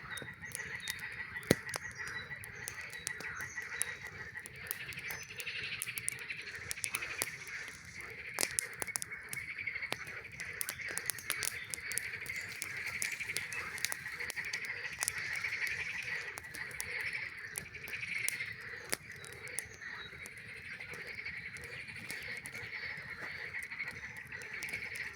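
A dense chorus of frogs calling without a break, with a campfire crackling over it in frequent sharp snaps.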